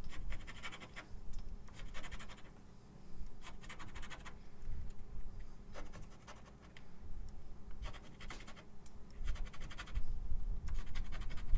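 Scratch-off lottery ticket being scratched, its coating rubbed off in short bursts of scratching with brief pauses between them.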